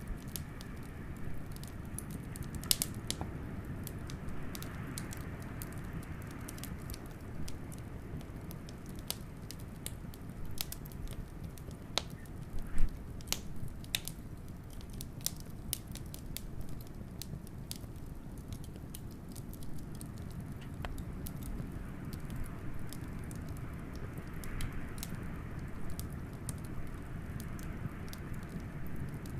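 Wood fire crackling with scattered sharp pops, the loudest cluster about halfway through, over a steady low rumble of blizzard wind that swells twice into a higher, hollow rush.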